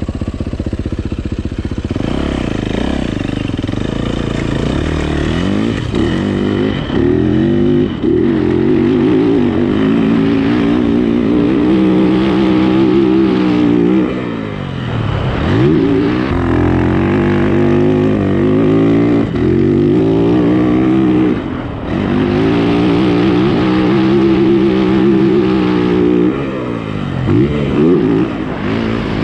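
Yamaha YZ450 four-stroke single-cylinder dirt bike engine, heard from the rider's seat, pulling hard in fourth gear on the dunes. Its note climbs as it accelerates, falls away sharply and comes back around the middle and twice more later, as the throttle is shut and reopened.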